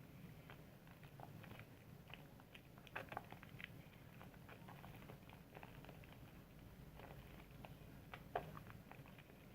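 Soap being lathered: faint, irregular wet clicks and squishes from the lather being worked, with a couple of slightly louder squelches about three seconds in and near the end.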